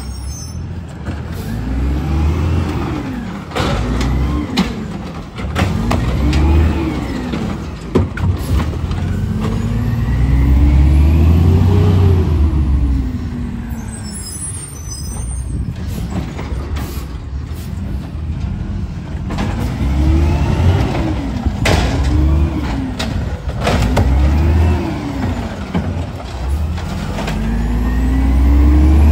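Garbage truck engine revving up and falling back again and again, every second or two, with sharp knocks and bangs in between.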